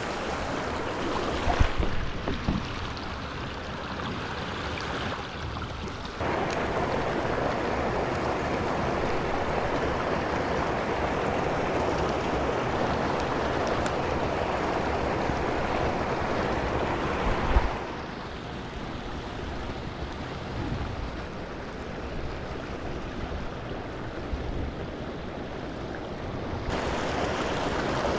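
Rushing water of a small mountain brook spilling into a pool, a steady hiss with no tones. It gets louder abruptly about six seconds in, drops back at about eighteen seconds and rises again near the end. A few low thuds come around two seconds and again at about seventeen seconds.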